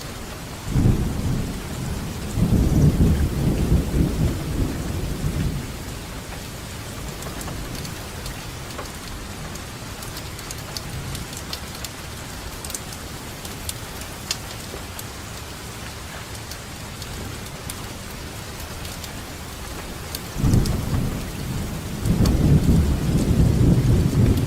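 Steady rain falling, with two rolls of thunder. The first breaks about a second in and rumbles for several seconds. The second starts near the end and is still rumbling as the sound ends.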